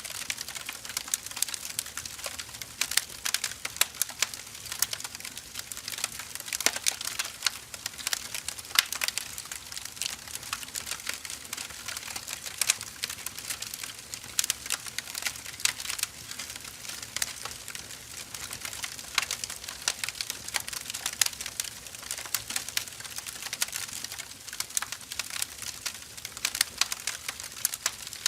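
Burning firewood crackling and popping: a steady soft hiss of the fire with many irregular sharp snaps, some louder than others.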